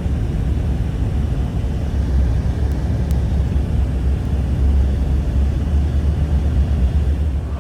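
Blizzard wind rumbling steadily and buffeting the microphone, a deep, even roar.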